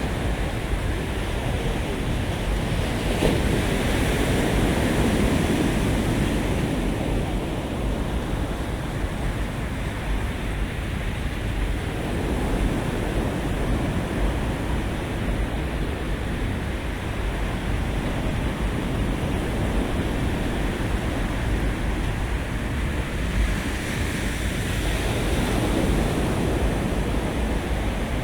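Sea waves washing onto a beach, with wind rumbling on the microphone; the surf swells louder twice, a few seconds in and again near the end.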